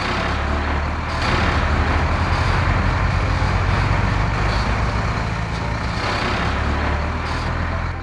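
Heavy truck engine running steadily with a deep, low rumble as a cement mixer truck drives along and pulls up.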